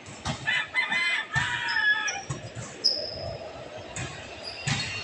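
A bird calls loudly for about two seconds, its pitch arching and then held, followed by a few short, high, thin chirps.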